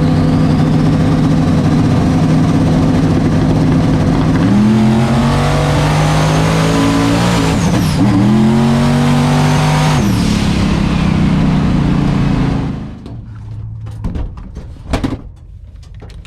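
Big-block twin-turbo drag car engine at full throttle on a pass, climbing in pitch and dropping back at each gear change. Near the end the engine sound falls away suddenly.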